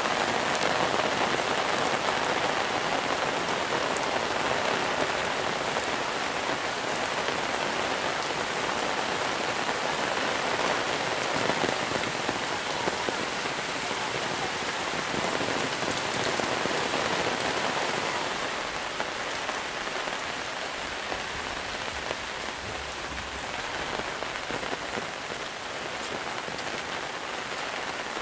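Steady heavy monsoon rain falling and pattering on surfaces, easing slightly about two-thirds of the way through.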